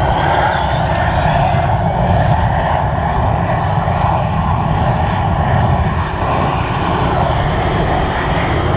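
Loud, steady aircraft engine noise, dipping briefly about six seconds in.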